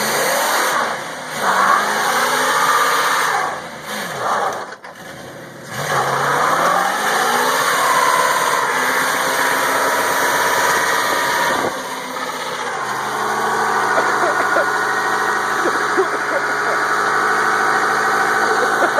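A car or truck engine revved repeatedly while the vehicle is in park, its pitch rising and falling. It drops away briefly about five seconds in, then picks up again and settles into a steady idle for the last few seconds.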